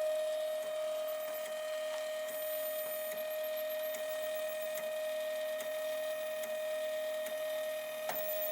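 Stepper motors of a Protomaker FDM 3D printer running a dry test print without filament, giving a steady high-pitched whine with a few faint ticks.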